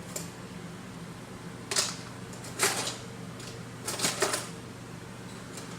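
Short clatters of kitchen utensils and containers handled on a counter while ingredients are measured out by the teaspoon: three brief knocks, the last one doubled, over a steady low hum.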